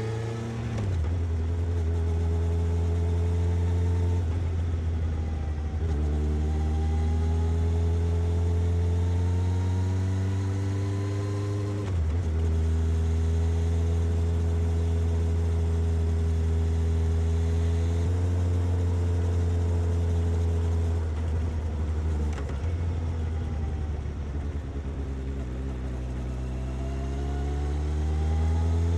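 Suzuki GSX-S750's inline-four engine and exhaust under way, its pitch climbing and dropping at gear changes in the first dozen seconds, then holding steady at cruise. It eases off later and climbs again near the end.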